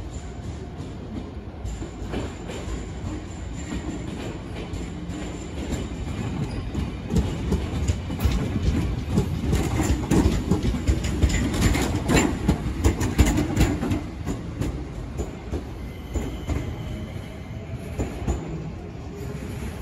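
Shizuoka Railway electric commuter train passing close by. Its rumble builds, its wheels clack over the rail joints and points loudest around the middle, and then it fades away.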